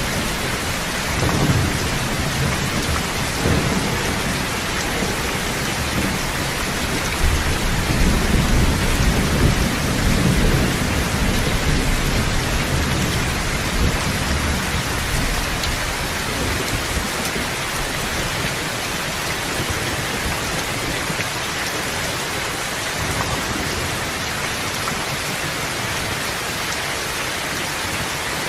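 Steady rain falling, with low rolling rumbles of thunder swelling about a second in and again from about seven to eleven seconds.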